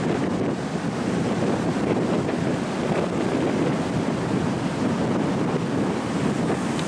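Strong wind buffeting the microphone over the steady rush of ocean surf on a beach.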